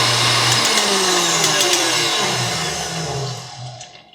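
KitchenAid Classic Plus stand mixer running at its top speed with no beater fitted, then switched off: the motor whine slides down in pitch and fades out near the end as it spins down.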